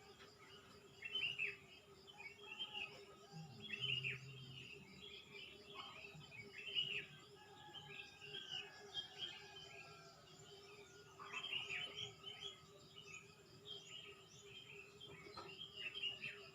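Wild birds chirping, with short down-slurred notes coming in quick clusters every second or two, over a faint steady low hum.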